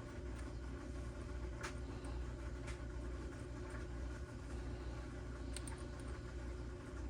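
Faint light clicks and taps of small carburetor parts being handled and fitted, a few scattered through, over a steady low hum.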